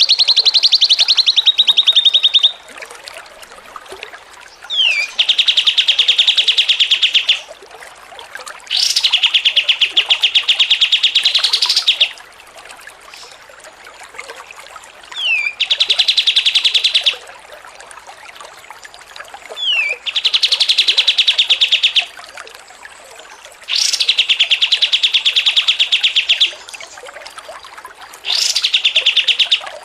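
Songbird singing a very rapid, buzzy trill in repeated phrases of two to three seconds each, about seven in all with short pauses between, several of them opened by a quick falling whistle note.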